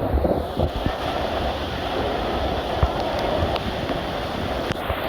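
Storm wind buffeting the microphone over a steady rush of water.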